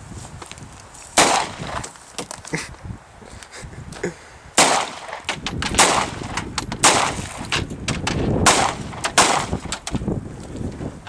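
A string of gunshots: six loud, sharp bangs about a second or more apart, with smaller knocks and cracks between them.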